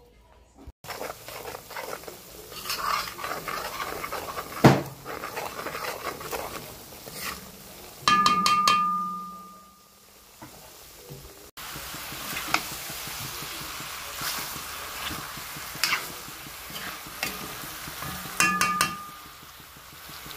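Food sizzling in a pan while a utensil stirs and scrapes, with frequent clinks against the pan. A metal ring sounds about eight seconds in and fades over a couple of seconds, and a shorter one comes near the end.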